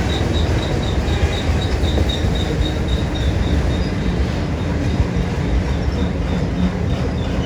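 Freight train rolling past at close range: a steady rumble of wheels on rail, with a quick high ping repeating several times a second that fades toward the end.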